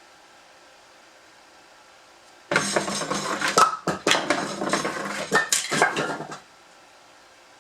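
Split firewood clattering down a culvert-pipe chute: a dense run of knocks and clatter lasting about four seconds, starting about two and a half seconds in.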